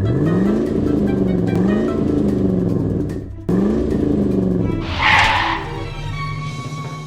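Cartoon car engine sound effect revving up twice, each time sweeping up in pitch and then wavering, over background music. A short hissing burst, like a skid, comes about five seconds in.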